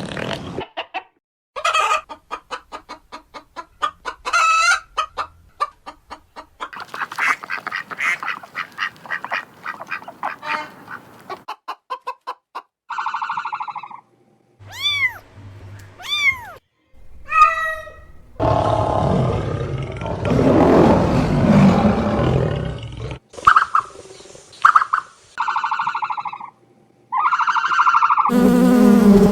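A run of farm animal calls in short separate clips, likely poultry. First come rapid, repeated calls. Then come a few calls that rise and fall in pitch, a noisier stretch, and a string of short calls about a second apart near the end.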